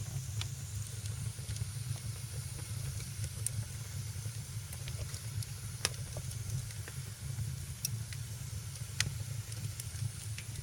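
Wood fire crackling in a fireplace: scattered sharp pops and snaps over a steady low rumble and a soft hiss, with the two loudest pops about six and nine seconds in.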